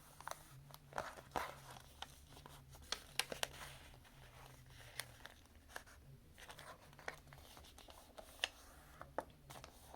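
A sheet of paper crinkling and crackling as folds are pressed and creased flat by hand: a scatter of short, faint crinkles.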